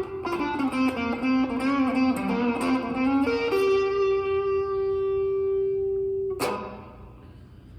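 Solo electric guitar playing a fast, jazz-style single-note melody line. It ends on a long held note that rings for about three seconds and is then cut off by a sharp click.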